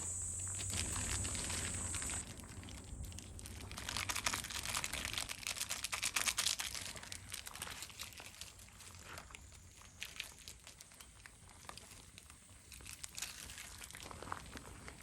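Crinkling and rustling handling noise, thickest a few seconds in and thinning to scattered ticks. A steady high-pitched drone underneath stops abruptly about two seconds in.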